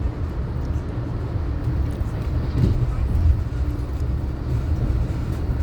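Steady low rumble of a moving passenger train heard from inside the coach.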